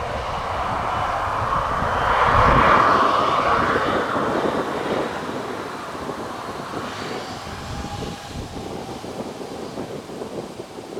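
A fixed-wing aircraft's engines passing by, loudest about two to three seconds in and then fading away.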